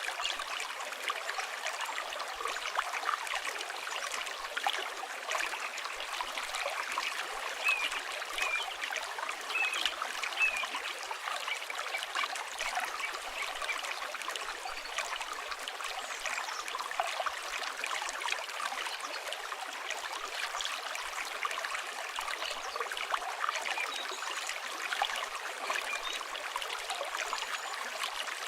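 River water flowing and trickling steadily, with a few short bird chirps about a third of the way in.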